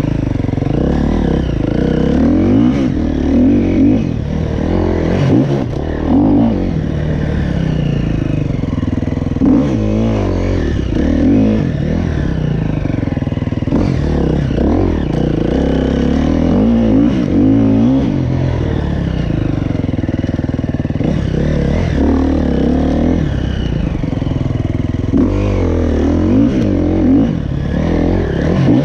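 KTM 350 SXF motocross bike's single-cylinder four-stroke engine being ridden hard, revving up and dropping back again and again as the throttle is opened and closed.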